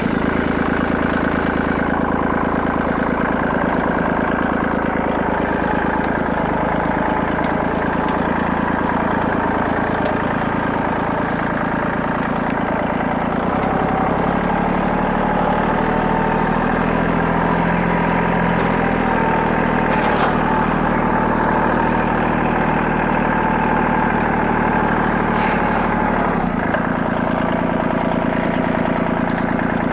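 Tractor engine running steadily and fairly loud, just after being started, with its engine speed shifting twice, about halfway through and again near the end.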